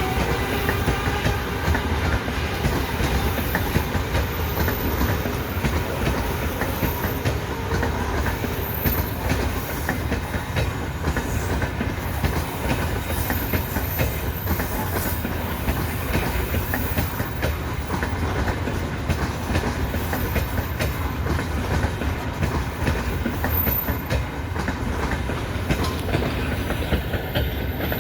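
Freight train wheels clattering steadily over rail joints, a continuous clickety-clack.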